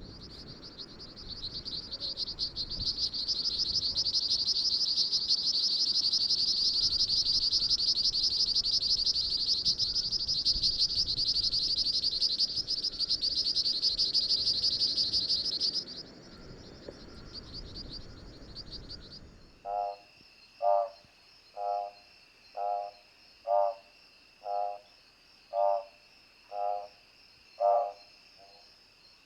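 Cope's swamp frog (Pseudopaludicola mystacalis) calling: a high-pitched, very rapid run of clicks that goes on almost without a break, stops, then comes back briefly. It then gives way to an Odontophrynus juquinha calling short pulsed low notes, about one a second, over a steady high insect drone.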